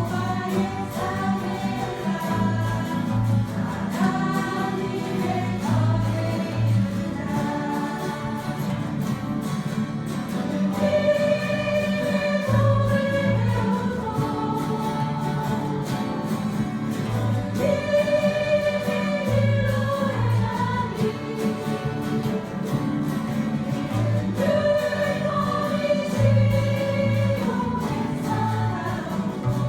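A group of voices singing a Korean worship song together, backed by a church guitar ensemble, with steady low bass notes under the melody.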